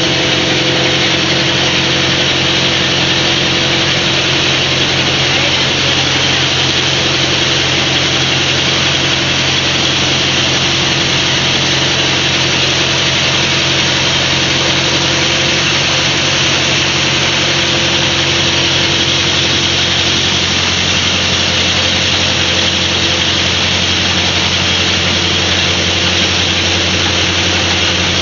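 Rice milling machine running steadily while milling palay: a loud, even mechanical drone with a constant hum and no change in speed.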